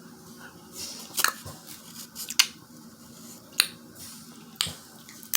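Snow crab leg shells cracking and snapping open by hand, a series of sharp cracks about once a second.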